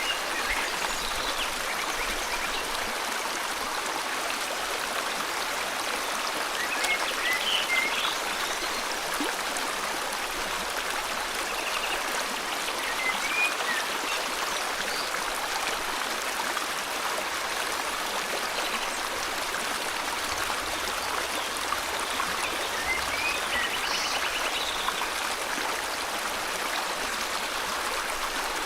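River water flowing steadily, with a few short bursts of bird chirping spread several seconds apart over it.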